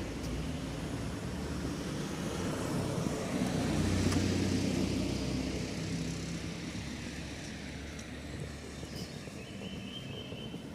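Engine noise of a passing vehicle, growing louder to a peak about four seconds in and then slowly fading away.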